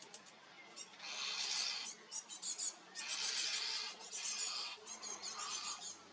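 Red squirrel gnawing and crunching peanuts: bursts of rapid crackly crunching, roughly one a second, from about a second in.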